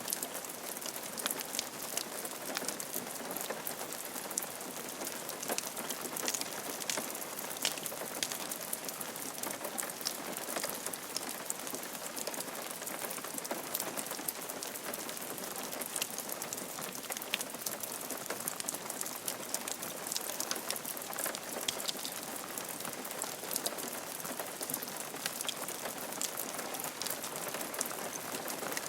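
Steady rain falling on a roof, a continuous patter with many individual drops ticking sharply against it.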